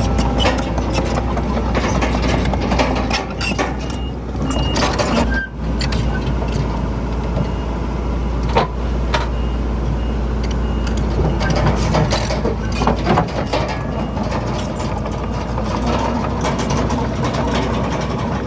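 Heavy diesel earthmoving machinery running steadily under load, with a low engine rumble and scattered clanks and knocks of metal and rock.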